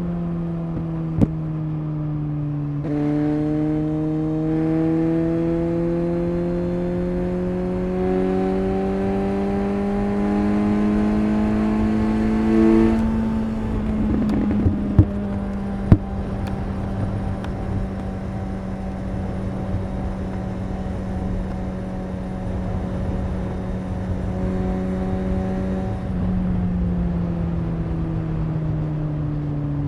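Suzuki GSX-S 750's inline-four engine and exhaust while riding at easy pace. The engine note climbs slowly under light throttle, changes gear about halfway through and holds steady at cruise, then falls away near the end. A few sharp clicks and a rumble of wind and road noise run underneath.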